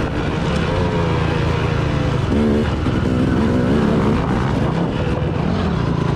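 Vehicle engine running steadily on the move, with wind rushing over the microphone.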